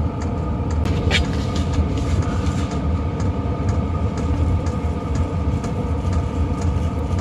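All-in-one diesel heater running: a steady low hum and blower rumble with faint ticks about twice a second.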